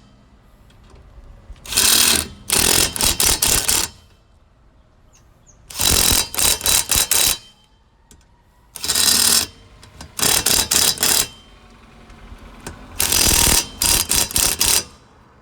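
Impact wrench hammering the wheel's lug nuts tight after they were hand-tightened, in about six short bursts with pauses between, each a rapid rattle of hammer blows.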